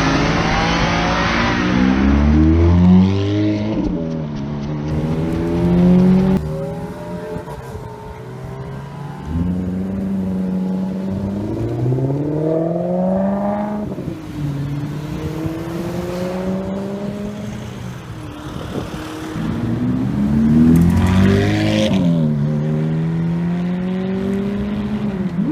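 High-performance car engines accelerating hard in several separate runs. The pitch climbs and then drops sharply at each gear change.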